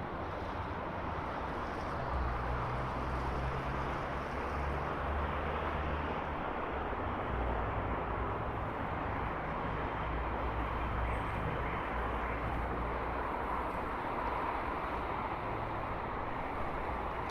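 Steady city traffic noise, with a low engine rumble from a passing vehicle that starts about two seconds in and fades out a few seconds before the end.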